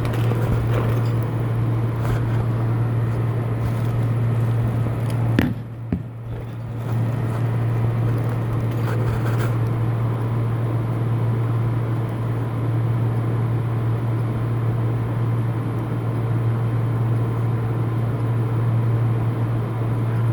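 A steady low mechanical hum with a noisy hiss over it, dipping briefly about five to seven seconds in.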